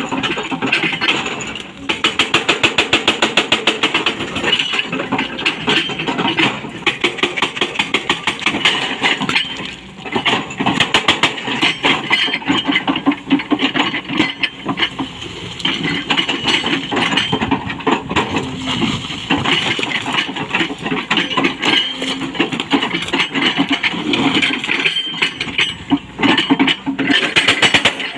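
Hydraulic breaker on a Kobelco excavator hammering rock in rapid, metallic blows over the running engine, pausing briefly now and then.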